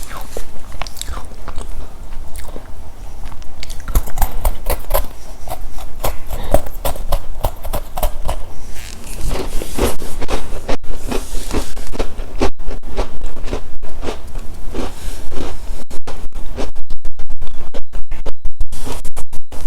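Close-miked biting and crunchy chewing of chocolate wafer and cookie snacks, quickening to fast, even crunches near the end. The audio cuts out for split seconds again and again, more often near the end: the microphone was not plugged in properly.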